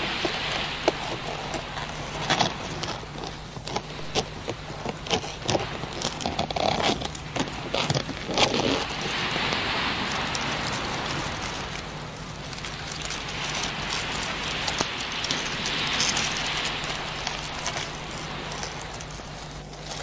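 Shoreline ambience: a run of irregular crackling clicks over the first several seconds, then a soft hiss of small waves washing in and out that swells and fades twice, over a faint steady low hum.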